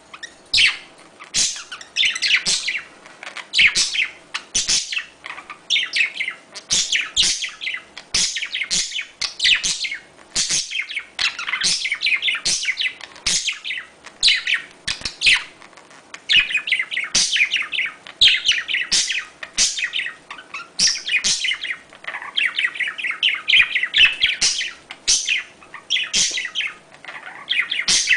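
Budgerigars chattering and chirping in quick, busy runs of high notes with brief pauses between them, the warbling courtship chatter of a breeding pair.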